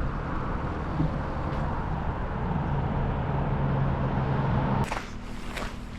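Car engine running, heard from inside the car as it pulls over; the sound changes abruptly about five seconds in.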